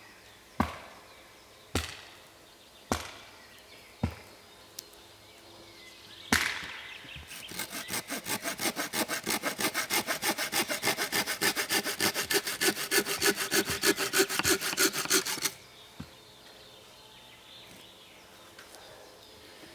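Four sharp knocks on wood about a second apart, then a hand saw cutting through wood with quick, even back-and-forth strokes for about nine seconds, stopping abruptly.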